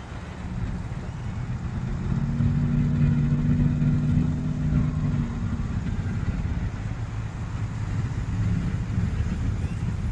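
Road traffic: a passing vehicle's engine swells and is loudest from about two to five seconds in, over steady traffic noise.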